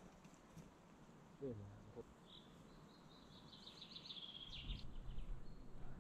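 Faint songbird song: a quick run of high chirps lasting about three seconds, starting about two seconds in. A low outdoor background noise grows toward the end.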